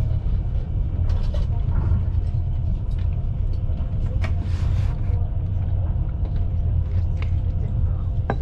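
Passenger train running, heard from the carriage window: a steady low rumble of wheels on rails with scattered clicks and knocks, and a brief hiss about halfway through.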